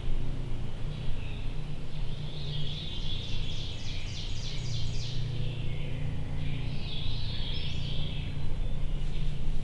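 Woodland songbirds singing, with a rapid trill of repeated notes from about three to five seconds in, over a steady low background rumble.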